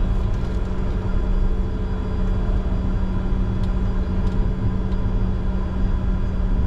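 Steady cockpit noise of a Bombardier Challenger 605 on the ground with its GE CF34 turbofans at idle: a low rumble with a constant hum.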